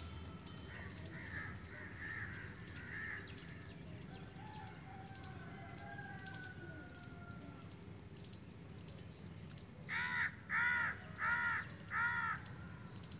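A bird calling outdoors, four loud calls in quick succession about ten seconds in, with a few fainter chirps earlier, over a steady low background hiss.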